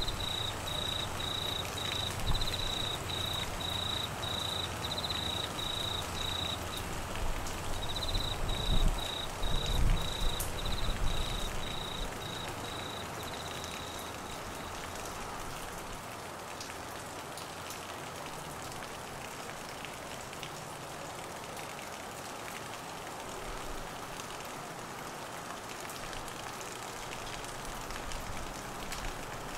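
Steady heavy rain falling, with a cricket chirping about twice a second that stops about halfway through. A low rumble under the rain swells about a third of the way in, then fades.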